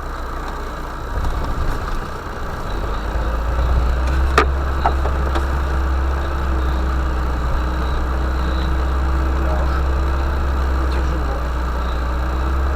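Vehicle engine running, heard from inside the cabin as a steady low drone that grows louder about three seconds in. A sharp knock sounds a little past four seconds, followed by a weaker one.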